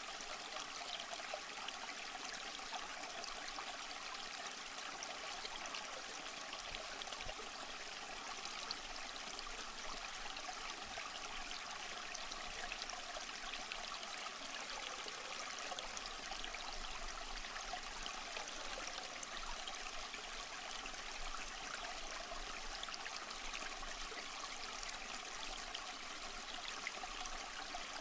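Small stream flowing steadily over rocks: an even water babble with fine trickling, unchanging throughout.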